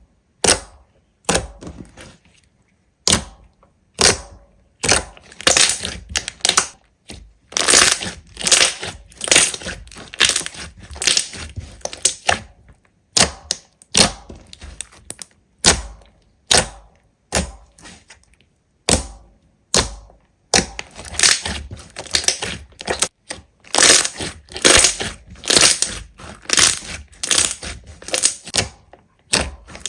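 Slime being pressed and squeezed by hand, giving a quick series of crackling, crunching squishes, one or two a second.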